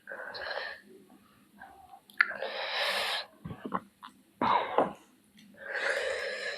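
A person's noisy breaths and throat sounds while eating spicy curry: four separate breathy bursts, like coughs or hard breaths, with short quiet gaps between them.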